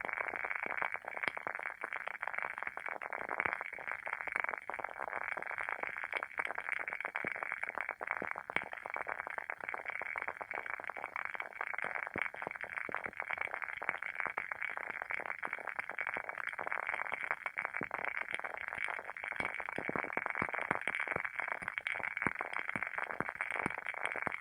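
Wooden wick of a WoodWick candle burning with a steady crackle: a dense, unbroken stream of small pops, like a tiny bonfire.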